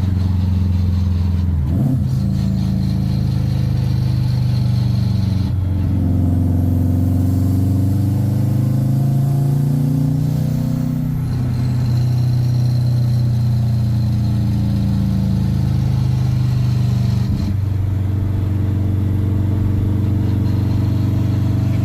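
Subaru 2-litre WRX flat-four engine running under way, heard from inside the car. The engine note breaks briefly three times and rises and falls in pitch between them, as with gear changes.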